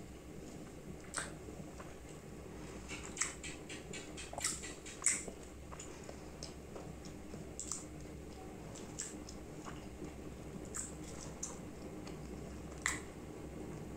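Close-up eating sounds of beef curry and rice eaten by hand: scattered wet clicks and smacks of chewing, with a quick run of them about three seconds in and a sharper one near the end.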